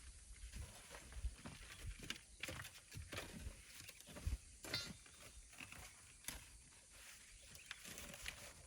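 Faint, irregular scrapes and knocks of hand tools working sand, with scattered footsteps.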